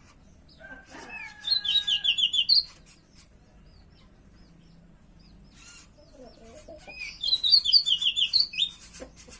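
Pied bushchat singing: two short, fast phrases of quick high notes, the first about a second in and the second about seven seconds in.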